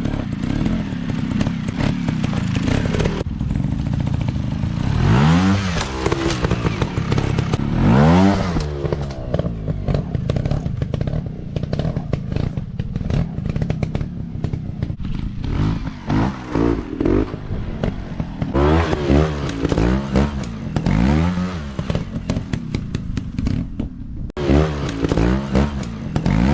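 Small off-road motorcycle engines revving in repeated bursts, the pitch rising and falling every second or two, with clattering and scraping mixed in.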